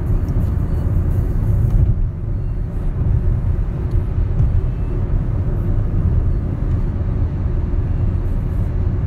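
Car road noise from inside the cabin while driving: a steady low rumble of engine and tyres.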